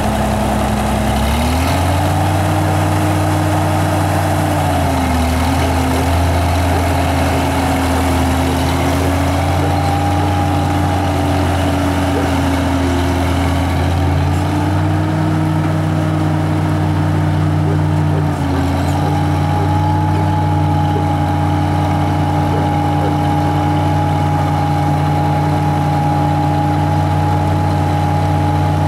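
Oliver 1850 tractor's six-cylinder engine running steadily, its speed picking up a little in the first couple of seconds. It sags briefly twice, about five seconds in and again past the halfway point.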